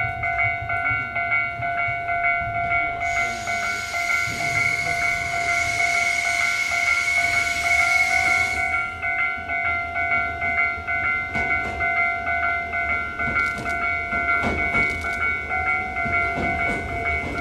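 A train standing at a station platform, with a steady high whine of several pitches. A hiss of air starts about three seconds in and stops about five seconds later, and a few sharp clicks come near the end.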